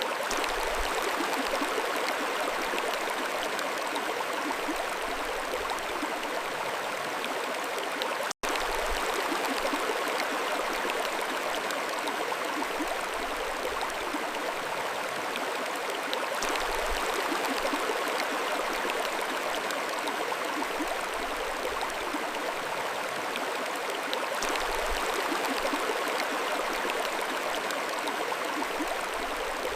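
Mountain stream flowing, a steady rush of water, with a split-second dropout about eight seconds in.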